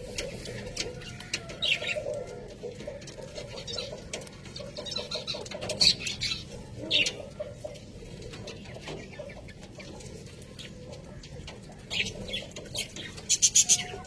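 Budgerigars chattering: a soft, continuous low warble with sharp high chirps every second or two, and a quick run of chirps near the end.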